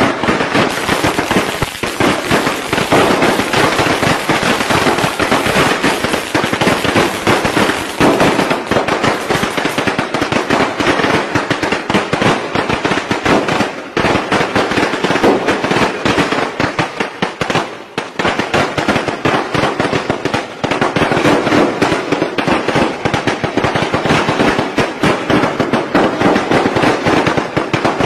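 Strings of traditional Tết firecrackers going off in a loud, dense, continuous rattle of bangs, with a brief lull about eighteen seconds in.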